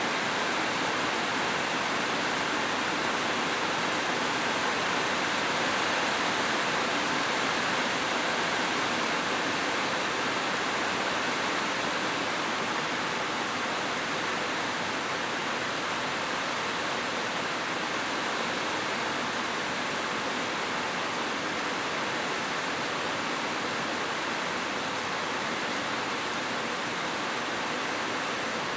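Heavy rain falling steadily, an even, unbroken hiss with no single drops standing out.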